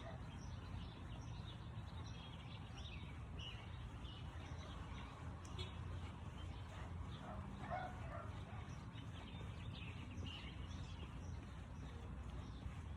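Faint bird chirps scattered over a steady low background rumble.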